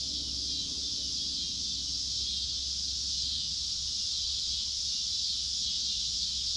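Steady, high-pitched chorus of crickets chirring without a break.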